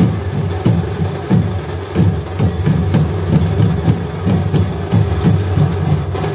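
Percussion music with a quick, steady beat of sharp strokes, about three a second, over a low held drone.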